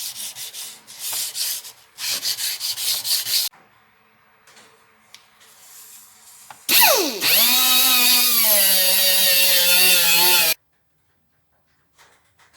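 Hand sanding in quick back-and-forth strokes. Then a loud power tool runs with a steady whine for about four seconds and cuts off suddenly.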